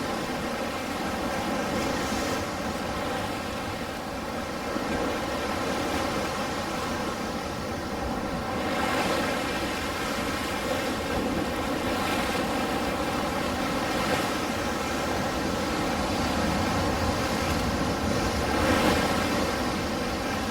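Ocean surf: a steady wash of waves, swelling and easing every few seconds.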